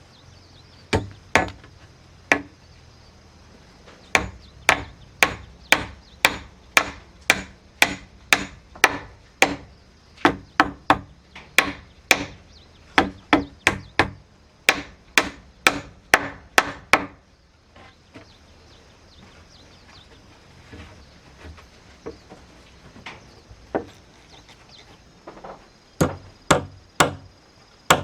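A hand tool striking wood over and over, about two blows a second. The blows stop for several seconds past the middle, then resume near the end.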